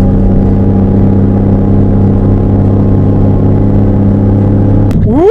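Vehicle engine idling with a steady, even hum just after starting, cutting off abruptly near the end as a rising, whistle-like call begins.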